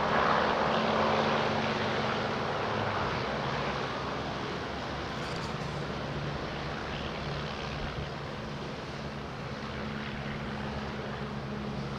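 Light propeller aircraft's piston engine running with a steady drone, loudest at first and easing off over the next several seconds.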